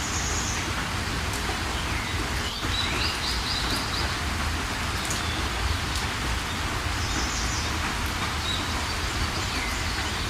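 Steady rain falling, a dense even hiss of drops, with birds chirping short trilled phrases every few seconds above it.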